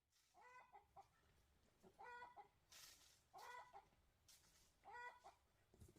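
A chicken clucking faintly: four short calls about a second and a half apart, with two brief rustles in between.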